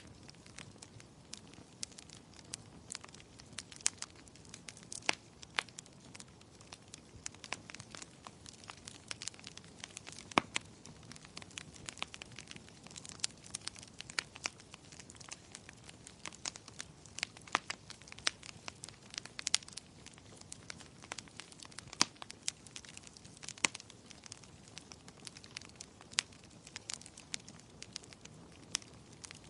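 Wood fire crackling in a fireplace, with irregular sharp pops and snaps over a soft steady hiss.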